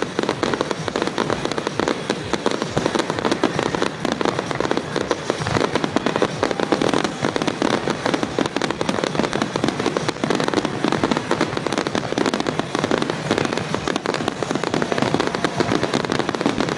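Fireworks display: a dense, continuous barrage of bangs and crackling with no pauses.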